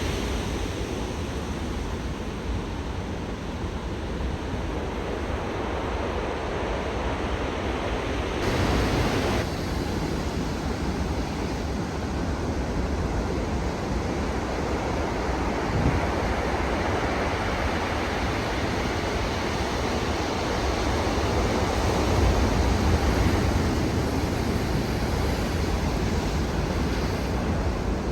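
Heavy ocean surf from a typhoon-driven ground swell: a continuous wash of breaking waves that surges louder at times, with wind rumbling on the microphone.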